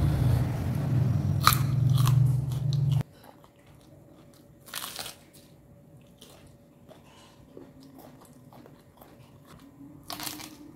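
Close-up crunching bites and chewing of raw garlic, a few sharp crunches standing out. A steady low hum underneath cuts off suddenly about three seconds in, leaving the chewing quieter.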